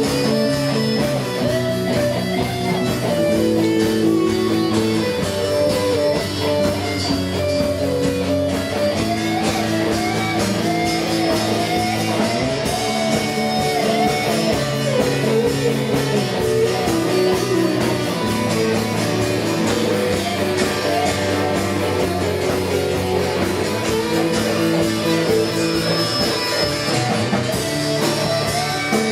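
Live band playing an instrumental passage: strummed guitar with a melody line moving up and down above it, steady throughout.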